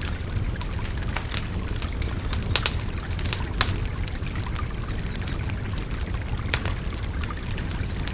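Wood fire crackling with irregular sharp pops, over the steady babble of a river.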